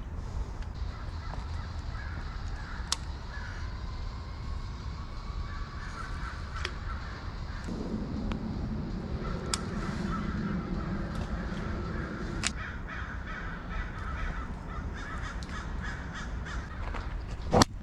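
Birds calling again and again over the steady low rush of creek water below a spillway, with scattered small clicks and one sharp, loud click near the end.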